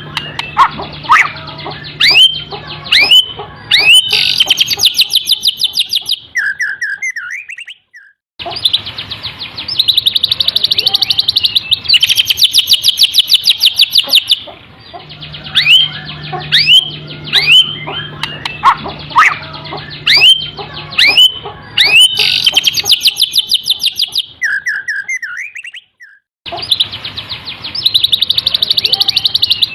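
White-rumped shama singing canary-style song: sharp rising whistled notes run into long, fast trills. The song breaks off briefly about 8 seconds in and again near 26 seconds.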